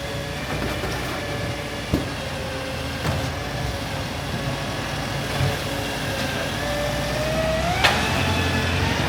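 Garbage truck running, with a steady whine that glides sharply upward near the end. Sharp knocks come about two and three seconds in, and a louder one near the end.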